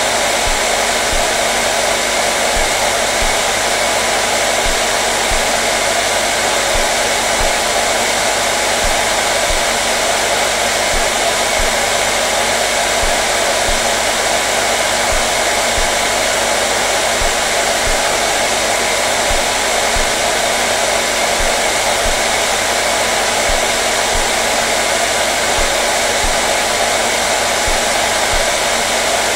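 Hair dryer running continuously at a constant speed: a steady, even blowing whoosh with a faint motor hum underneath.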